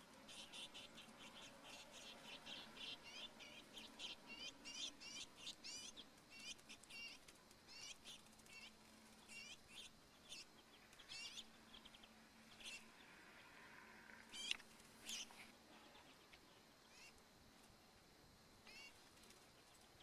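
Small bird giving a faint, rapid series of short, high chirping call notes, about three or four a second, thinning out to scattered single notes after about twelve seconds.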